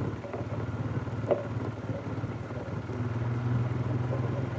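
2015 Polaris 570 ATV's single-cylinder engine running steadily on a trail ride. Its low drone grows louder about three seconds in, with one sharp knock or clatter a little over a second in.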